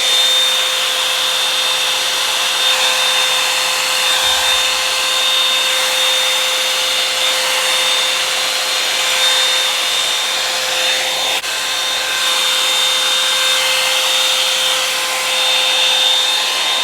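Revlon One-Step hair dryer brush running steadily on its high setting: a constant motor whine over the rush of blown air.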